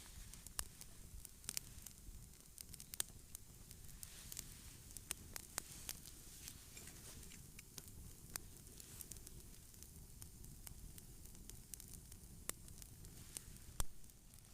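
Wood campfire crackling, with irregular sharp pops over a low steady hiss; one louder pop near the end.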